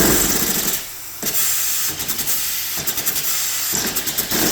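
3D-printed inline two-cylinder compressed-air engine running: a loud hiss of escaping air with a fast clatter from the pistons and crank. It dips for a moment about a second in, then picks back up.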